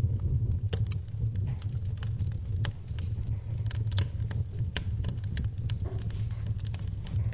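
Wood fire in a fireplace crackling, with irregular sharp pops and snaps, several a second, over a steady low rumble of the flames.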